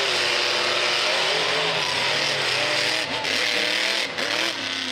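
Monster truck engine running loud, its pitch rising and falling as the throttle is worked.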